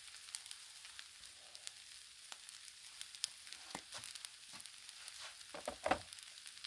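Red beans, rice and smoked sausage frying on a Blackstone flat-top griddle: a steady sizzle with scattered small pops. A couple of short louder knocks near the end.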